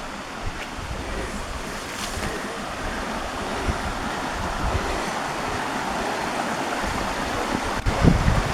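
Steady rush of a mountain waterfall, swelling slightly, with wind buffeting the microphone near the end.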